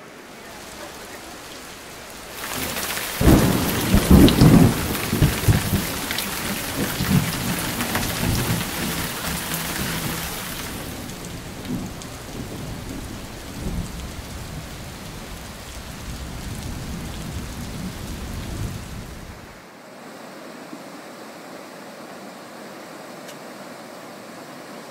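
Heavy rain pouring down, with a loud rumble of thunder starting about three seconds in. The downpour eases after about ten seconds into a steadier hiss of rain, and the low rumbling dies away near the end.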